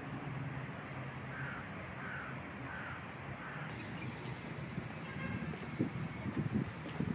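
A bird calls four times in a row, about once every two thirds of a second, over steady outdoor background noise. In the second half come a few irregular low thumps.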